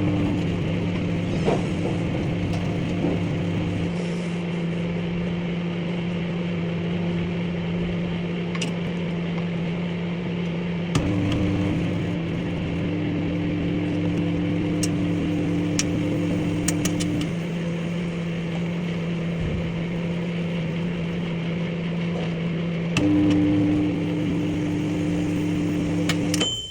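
Microwave oven running with a steady hum, a few sharp clicks scattered through it. A short beep sounds near the end as it stops.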